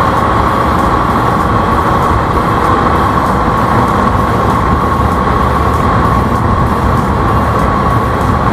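KTM motorcycle held at a steady high speed: constant wind rush over the microphone with an unchanging engine whine.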